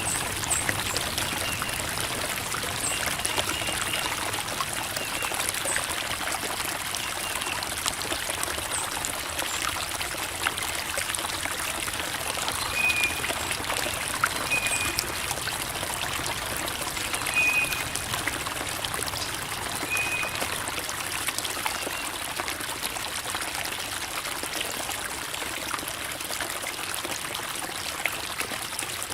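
Creek water flowing and trickling over rocks, a steady babbling splash, with a few short high chirps here and there.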